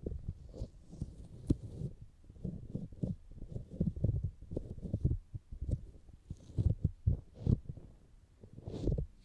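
Fingers tapping and rubbing the silicone outer ears of a binaural microphone: irregular, muffled low thumps several times a second, with a few sharper clicks.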